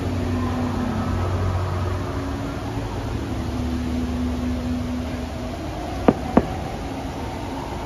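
Fireworks display: two sharp bangs of aerial shells bursting, a fraction of a second apart, about six seconds in, over a steady low rumble.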